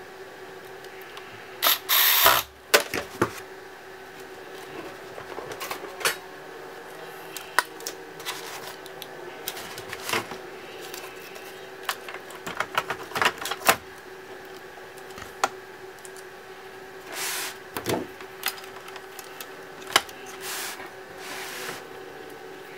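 Clicks, taps and light knocks of small tools and plastic or metal laptop parts being handled during a repair, irregular and scattered, with a short loud rushing burst about two seconds in, over a steady hum.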